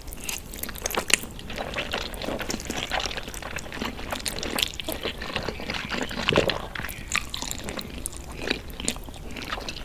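A person eating, chewing and biting, with many irregular sharp clicks and crunches.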